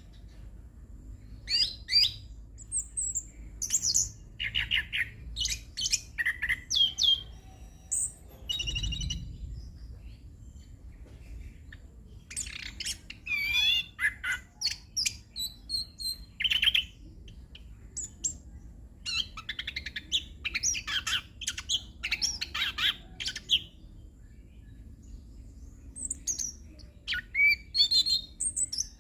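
Chestnut-capped thrush (anis kembang) singing a long rolling song of quick, varied whistled phrases and mimicked calls, in bursts with a few short pauses.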